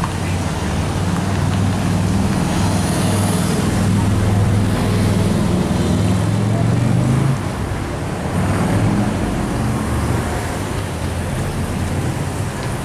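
A motor vehicle engine running steadily nearby, a low hum that drops off sharply about seven seconds in, with people talking in the background.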